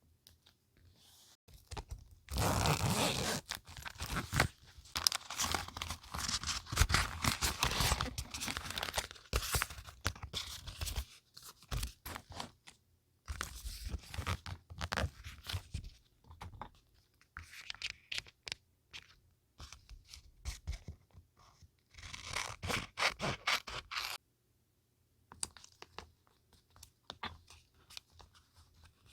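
Scrapbooking paper being handled and crinkled, in bursts of crackly rustling with pauses between; the longest burst lasts several seconds near the start, with shorter ones later.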